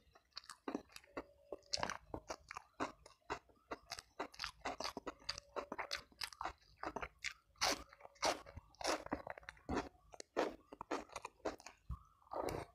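A person chewing crisp food close to the microphone: a dense, uneven run of sharp crunches, several a second.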